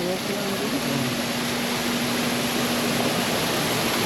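Steady rushing noise of indoor ambience, with a steady low hum setting in about a second in; a faint voice trails off near the start.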